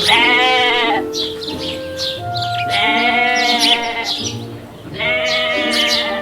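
Sheep bleating three times, each call about a second long with a wavering pitch, over background music.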